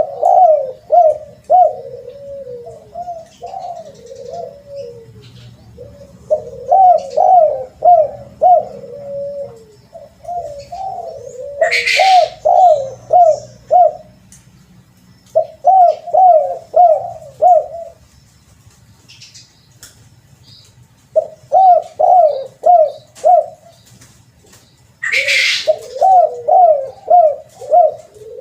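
Spotted dove (terkukur) cooing over and over, each phrase a quick run of four to six rising coos, with short pauses between phrases. A brief hiss cuts in twice, about halfway through and near the end.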